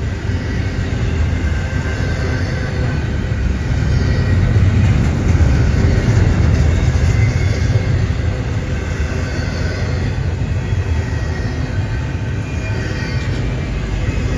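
A train passing on the rails: a steady low rumble that swells about four seconds in and eases off toward the end, with faint high steady tones above it.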